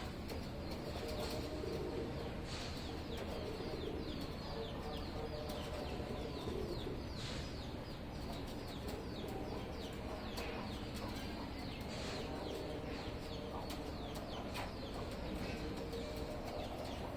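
Pigeons cooing, with many short, high chirps falling in pitch throughout.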